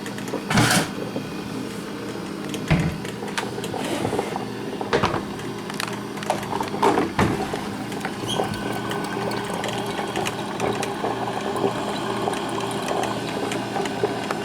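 Black & Decker thermal carafe drip coffee maker brewing, bubbling and gurgling as it pumps hot water through, over a steady hum. A few sharp knocks and clatters come in the first half.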